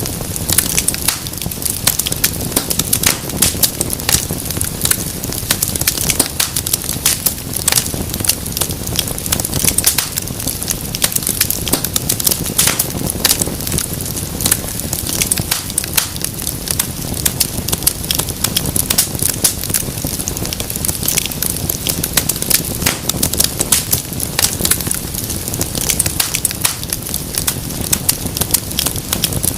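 Wood fire burning in a fireplace: a steady low rumble of flames with dense, irregular crackles and pops throughout.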